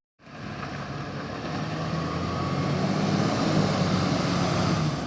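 Garbage truck's diesel engine running as it approaches, growing louder over the first three seconds or so and easing off slightly near the end.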